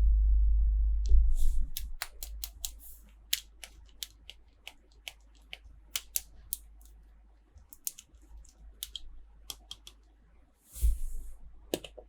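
Hands unboxing plastic toys and packaging: a run of sharp clicks and snips, with a low handling thump and rumble at the start and a brief rustle of packaging near the end.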